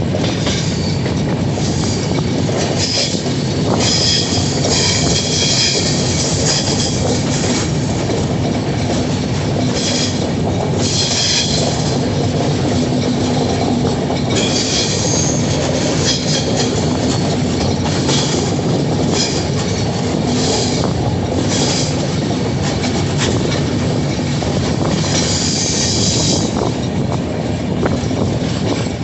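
A moving train's steady wheel-on-rail rumble, with clicks as the wheels pass over rail joints. High screeching from the wheels comes and goes several times.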